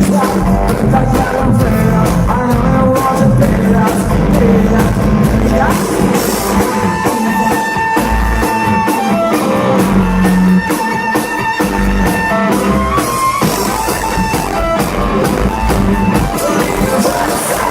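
Live rock band playing loud, with electric guitar and drum kit and a voice singing at times.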